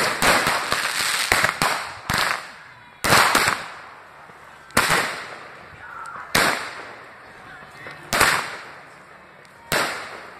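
Aerial fireworks bursting overhead: about seven sharp bangs, one every one to two seconds, each trailing off over about a second.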